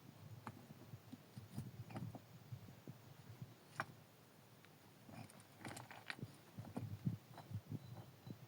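Faint, irregular soft knocks and light clicks, with a denser cluster about five to seven seconds in.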